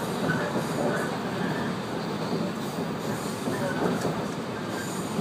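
Running noise of a 115-series electric train heard from inside the passenger car: a steady rumble and rush of wheels on rail at speed, with a few brief faint squeals from the wheels.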